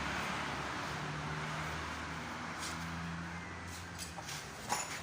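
A vehicle engine running steadily at idle, with a short sharp click near the end.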